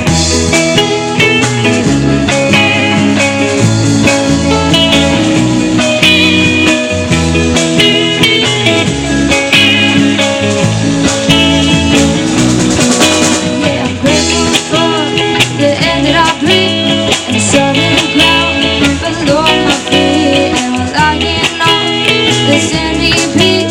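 Live rock band playing an instrumental passage: guitar leads over a stepping bass line and drums.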